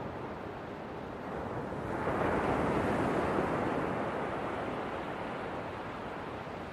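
Ocean waves washing onto a shore: a steady rush with one wave swelling about two seconds in, then slowly receding.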